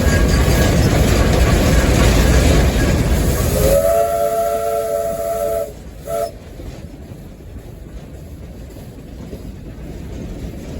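Steam locomotive heard from its cab: a loud steady hiss and rumble, then about four seconds in its whistle gives a long blast of several notes at once followed by a short toot, after which the noise drops to a much quieter hiss.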